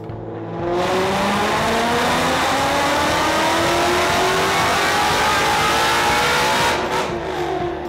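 Supercharged 5.2-litre Predator V8 in a Mustang making a wide-open-throttle pull on a chassis dyno. Its note rises steadily in pitch for about six seconds as the revs climb, then the throttle closes near the end and the revs drop.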